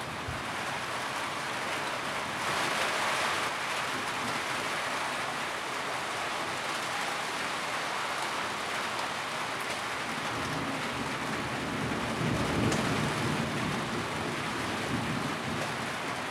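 Steady rain falling on a tin roof as an even hiss, briefly heavier about three seconds in. A low rumble rises under it about ten seconds in and fades after a few seconds.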